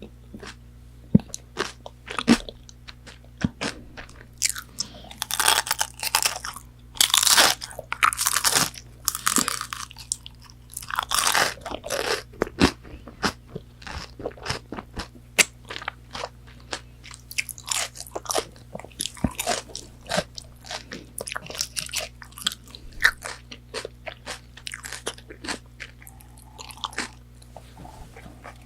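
Close-miked crunchy bites and chewing of McDonald's chicken nuggets, the fried breading crackling with each bite. The crunching is loudest in a run of bites from about five to thirteen seconds in, then goes on as softer chewing clicks.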